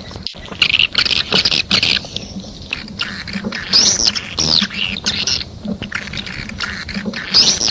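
Swiftlets twittering, as on a swiftlet-house lure call recording. Rapid buzzy chirps and clicking chatter run throughout, with high arching calls that rise and fall about four seconds in and again near the end.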